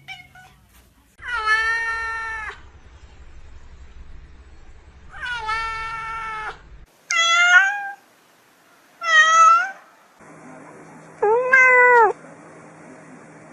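Cat meowing five times, with drawn-out calls. The first two last about a second and a half each, and the later three are shorter.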